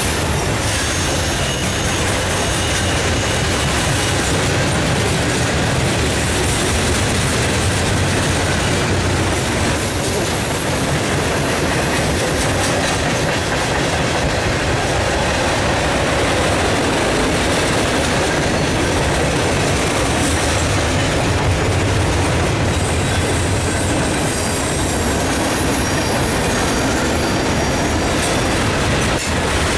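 Freight cars of a mixed freight train rolling past: a steady rumble and clatter of steel wheels on rail, with faint high-pitched wheel squeal here and there.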